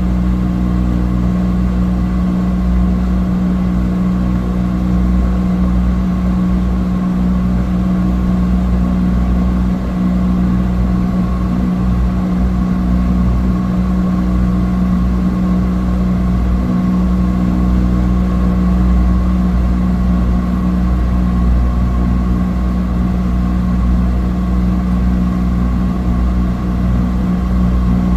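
Cessna 208 Caravan's single Pratt & Whitney PT6A turboprop droning steadily, heard from inside the cabin: a constant low rumble with a steady hum on top, unchanging in pitch and loudness.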